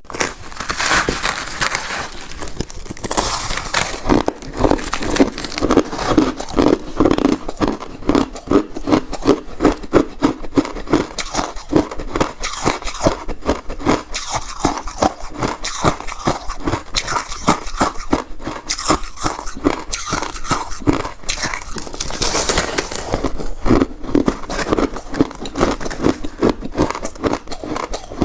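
Close-up chewing of refrozen crushed ice: a fast run of sharp crunches and crackles as the ice breaks between the teeth, with a few louder, brighter bites.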